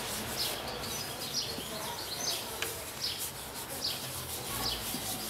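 Bird chirping: short, high calls that fall in pitch, repeated every half second to a second over steady background noise.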